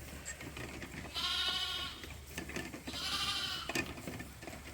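Lamb bleating twice, two wavering, high cries about two seconds apart, a crying sound like it is looking for its mom.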